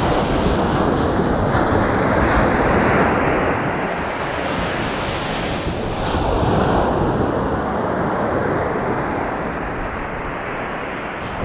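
Sea waves breaking and washing up a beach, in two surges: one swelling from the start to about three seconds in, and another peaking a little past the middle.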